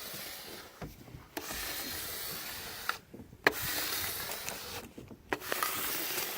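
Applicator squeegee rubbed in repeated strokes over the transfer tape of a vinyl car decal, smoothing the letters down: about four hissing, scraping passes, each a second or more long with brief pauses and light ticks between them.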